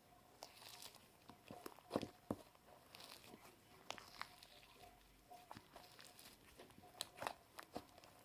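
Slime being kneaded and stretched by hand, giving faint, scattered sticky clicks, pops and crackles, a sharper pop about two seconds in and a few more near the end.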